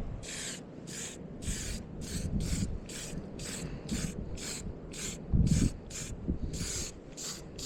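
Aerosol spray-paint can hissing in short, quick bursts, about two a second. A dull low bump comes about two-thirds of the way through.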